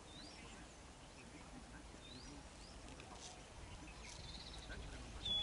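Birds chirping faintly over quiet outdoor ambience: short rising calls scattered throughout, a brief trill past the middle, and a louder, sharp call near the end.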